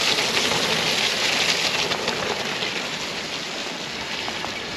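Steady rushing hiss of rain and wind, slowly fading.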